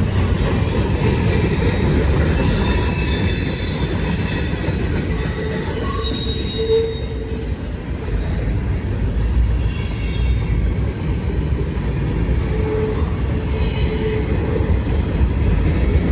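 CSX freight train's cars rolling past close by: a steady low rumble of wheels on rail, with high thin wheel squeals coming and going over it.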